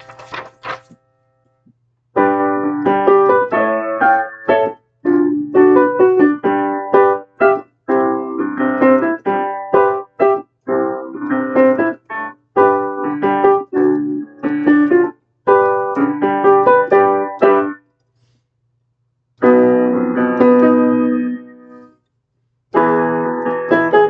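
Piano playing a run of struck chords, with short breaks where the sound stops abruptly: once near the start, once for over a second past the middle, and once near the end.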